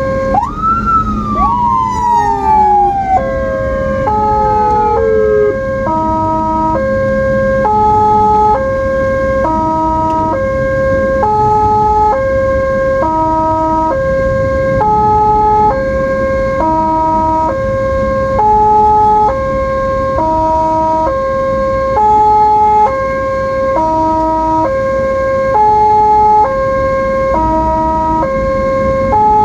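Ambulance siren. Two tones sweep down in pitch over the first five seconds, then it settles into a repeating stepped tone that jumps between pitches a little more than once a second. Low road and engine noise runs underneath.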